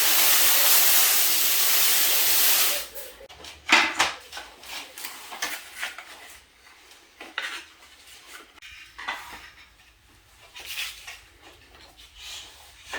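A loud steady hiss that cuts off about three seconds in, followed by scattered light clicks, taps and rustles of world-map pieces being handled and laid out on the floor.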